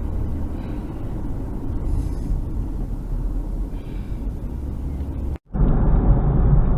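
Steady low rumble of a car driving, road and engine noise. It cuts out for a moment about five seconds in and comes back louder and duller.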